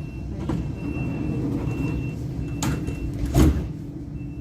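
Interior of a class 425 electric multiple unit: steady low running rumble with a thin high tone coming and going, a knock about half a second in, and two sharp clacks near the three-second mark, the second the loudest.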